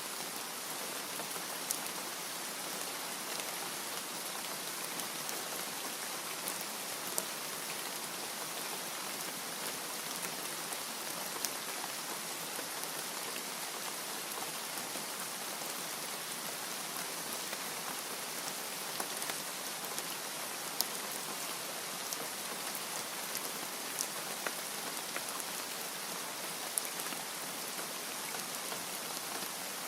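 Steady rain falling, an even hiss with scattered sharper drops ticking now and then.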